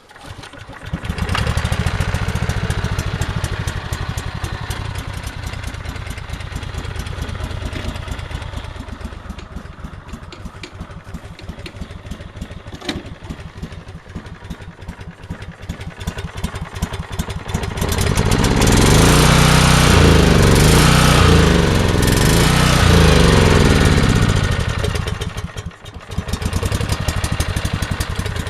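Race lawn tractor's small engine catching about a second in on its first cold start, then running with a fast, even beat. Near the end it is revved up and down several times, louder, then drops back and keeps running.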